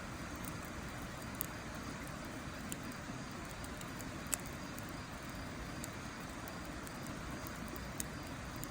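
Wood fire burning in a steel fire pit, with a few sharp crackles and pops, the loudest about four seconds in, over a steady rushing background.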